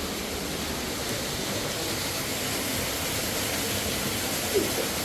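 Steady rush of fast-flowing mountain river water, an even noise without rhythm. A single short sound stands out briefly near the end.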